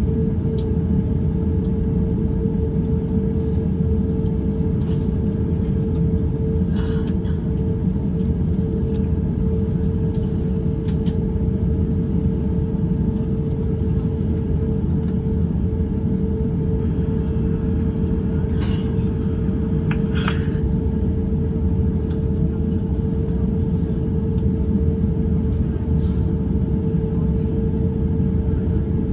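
Steady cabin rumble of an Airbus A350-900 on the ground before takeoff: its Rolls-Royce Trent XWB engines at low power with the air-conditioning, a constant low drone and a steady hum, even in level.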